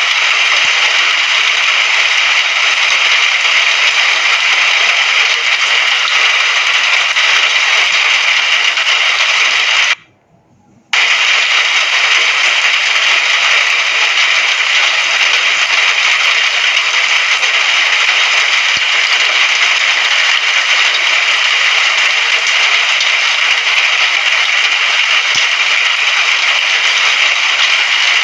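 Steady hiss of falling rain, even and dense with no drops standing out. It cuts out completely for about a second about ten seconds in, then resumes unchanged.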